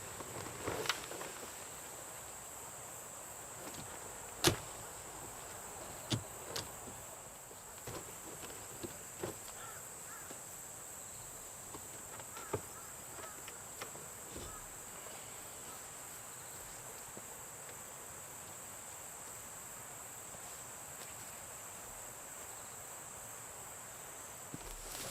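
Steady high-pitched insect chorus with scattered sharp clicks and knocks over the first half, the loudest a single knock about four and a half seconds in.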